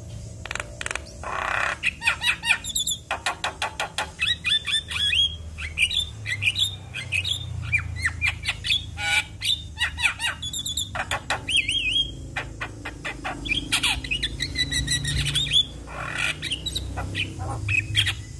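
Javan myna singing a fast, varied run of harsh squawks, clicks, trills and rising and falling whistles, over a steady low rumble.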